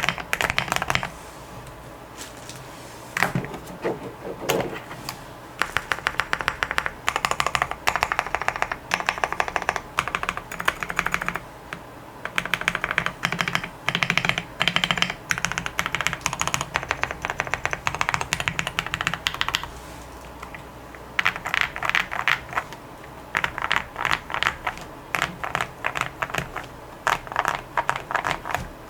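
Typing on a KBDFans Tiger 80 Lite mechanical keyboard with lubed, filmed Gateron Black Ink linear switches under MT3 keycaps, dampened with tape and foam mods. The keys go down in fast bursts of strokes with short pauses between them, and a few heavier single strokes come a few seconds in.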